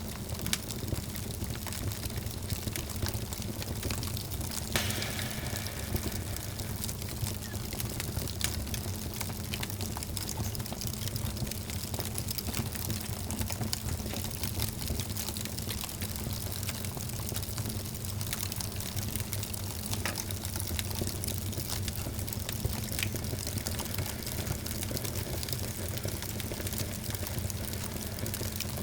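Wood fire crackling with frequent small pops and snaps over a steady hiss and low rumble.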